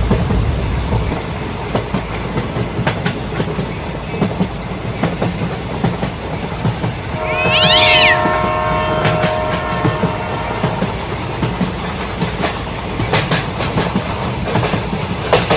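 Toy train running on a model track: a steady rattle with scattered clicks from the wheels over the rails. About seven seconds in, a horn-like tone with a shrill rising-and-falling squeal on top sounds for about three seconds.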